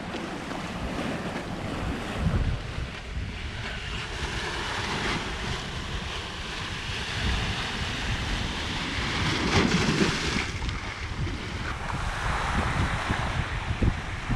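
Surf washing onto a beach, with wind buffeting the microphone in a low rumble that swells and eases.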